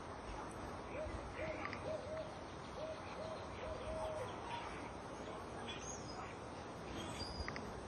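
A bird calling: a run of short, low hooting notes in two groups, over steady faint outdoor background noise.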